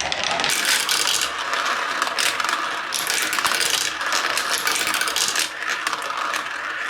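Balls rolling and clattering down the plastic tracks of a Kumikumi Slope marble-run toy: a dense, continuous stream of small clicks and rattles.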